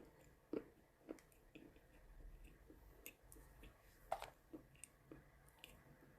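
A person chewing chalk: faint, irregular crunches and clicks, a few each second, the loudest about four seconds in.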